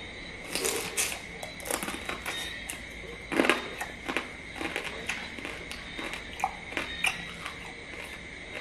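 Close-up chewing of crab: irregular wet smacks and crackly crunches of shell and meat in the mouth, the loudest crunch about three and a half seconds in. A steady high-pitched tone sounds in the background.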